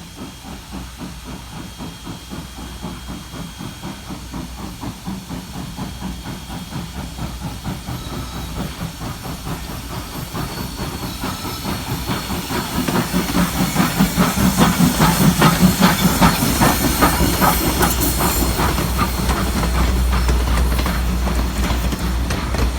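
Norfolk & Western 4-8-0 steam locomotive No. 475 working a train, its exhaust chuffing in a steady beat with hissing steam. It grows louder through the first half as the engine draws near, then stays loud.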